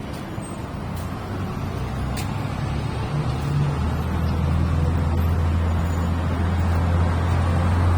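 Road traffic: a motor vehicle's engine rumbling low and steady, growing louder as it comes closer.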